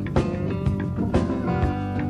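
Live band playing an instrumental funky blues groove: guitar over bass and drums, with a steady beat of about two strokes a second.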